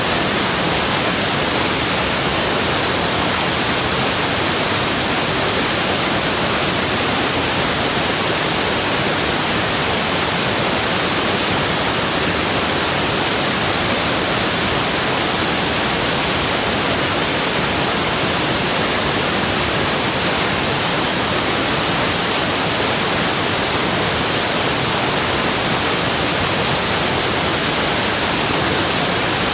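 Rushing water: a steady, even hiss without any change.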